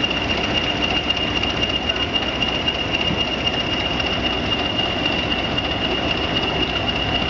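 A train running steadily, its continuous rumble and rail noise carrying a steady high whine.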